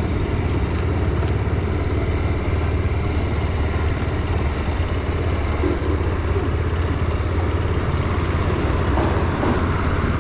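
Motorcycle running steadily on the move, a continuous low rumble with road noise.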